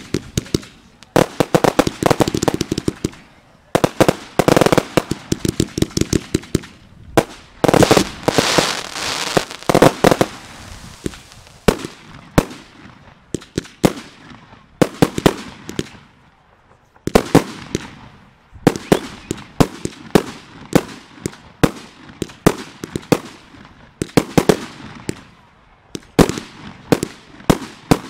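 Fireworks display firing a barrage: rapid runs of sharp launch bangs and aerial bursts, many in quick succession, with a dense stretch about a third of the way in and more spaced bangs later.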